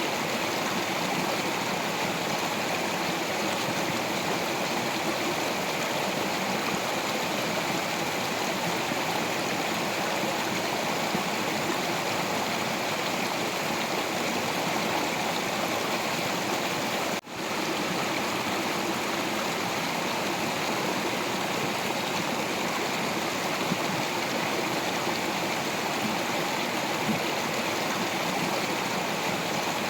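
Stream water rushing and splashing over rocks in a steady, even wash of sound. It drops out for an instant a little past halfway, then carries on unchanged.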